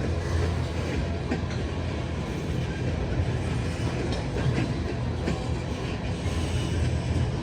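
Freight train rolling past: a steady low rumble of wheels on rail, with scattered clanks from the cars.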